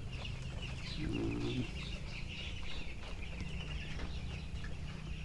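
A flock of 13-day-old broiler chickens peeping and chirping steadily, with a short low hum about a second in.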